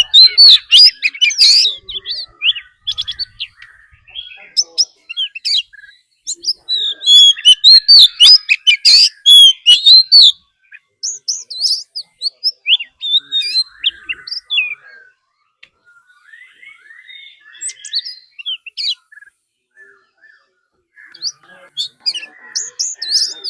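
Oriental magpie-robin singing its fighting song: loud phrases of rapid, varied whistles and chirps, separated by short pauses and softer calls.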